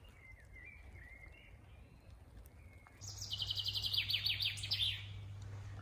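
A songbird sings a rapid trill of about two seconds, beginning some three seconds in, with its notes stepping down in pitch. Fainter warbling chirps come before it, and a low steady hum runs beneath the trill.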